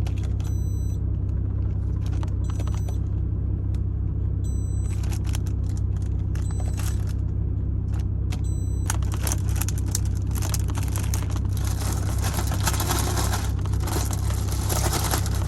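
Salad being stirred and tossed in a plastic container with a plastic fork: scattered clicks and scrapes, becoming a denser crinkly rustling about nine seconds in. Under it runs the low steady hum of the idling truck.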